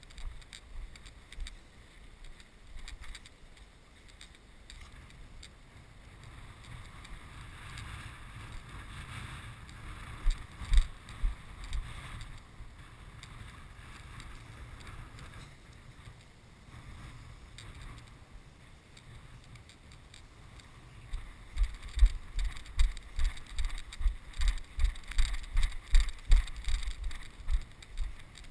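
Strong wind buffeting the camera's microphone, a low rumble with a hiss over it. In the last third there is a run of regular low thumps, about two a second.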